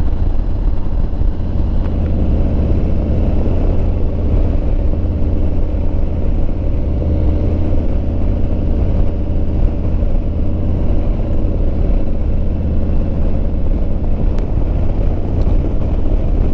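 Motorcycle engine running steadily at road speed, heard from the rider's helmet microphone under a heavy wind rumble.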